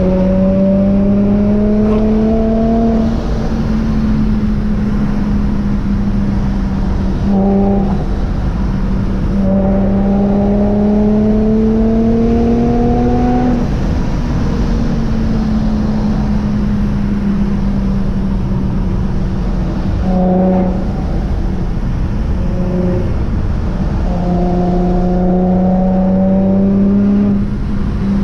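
Vortech-supercharged Infiniti G35's V6, breathing through aftermarket headers and a Motordyne TDX2 exhaust, pulling under load on the road. Its note climbs slowly and drops back several times with throttle and gear changes.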